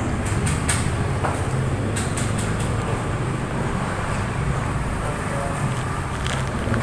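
Steady low rumble of road traffic, with scattered light clicks and rattles.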